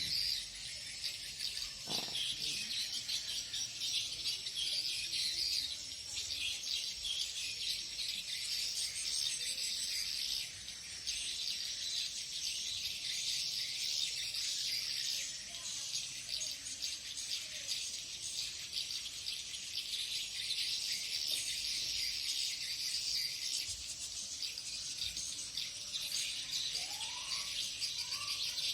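Swiftlets twittering, a dense, continuous mass of high, rapid chirps, with a couple of short rising calls near the end.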